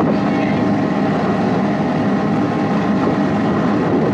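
Amusement-park helicopter ride running, a steady mechanical hum with several constant tones from its drive.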